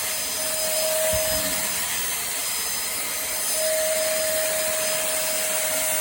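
Pemacom cordless handheld vacuum cleaner running with its brush tool on carpet: a steady rushing airflow with a high motor whine that drops out for a couple of seconds in the middle, and a brief low bump about a second in.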